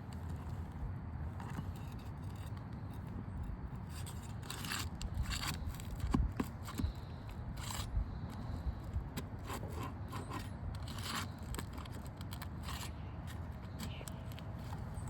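Steel flat bar scraping and clicking against asphalt shingles as roofing nails are pried out, in a string of short, irregular scrapes and ticks.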